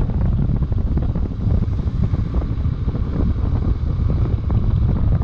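Wind rushing over the microphone of a moving motorcycle: a loud, steady buffeting rumble that buries the engine.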